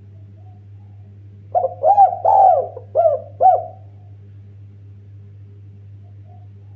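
Spotted dove cooing one phrase of about five rounded notes, each rising and falling, starting about a second and a half in and lasting about two seconds. A steady low hum lies underneath.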